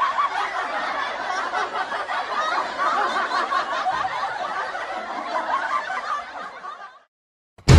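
Laughter, a meme sound effect, going on for several seconds and fading out about seven seconds in.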